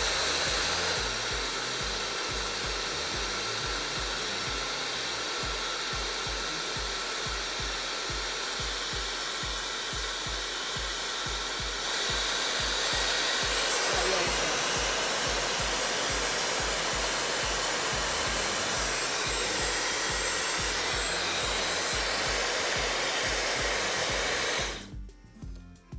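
Dyson hair dryer blowing air steadily, with a thin high whine in the first half; it gets a little louder about halfway through, as if switched to a higher setting, and cuts off suddenly near the end.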